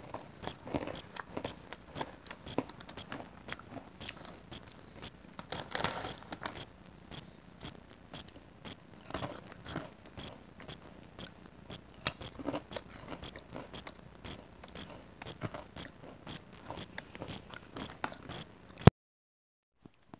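Close-miked chewing and crunching of caramel pretzel popcorn, with crackling and clicks from a faulty clip-on microphone. Near the end a sharp pop, then the sound cuts out completely for about a second.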